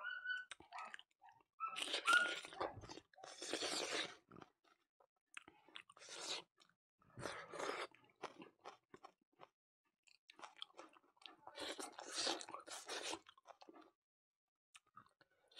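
Close-miked chewing of rice and pork eaten by hand: wet mouth sounds in bursts about a second long with short silent pauses between them.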